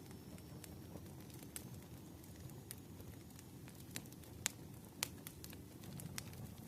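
Crackling fire: a faint, steady low rumble with scattered sharp pops and snaps, two of them louder a little past the middle.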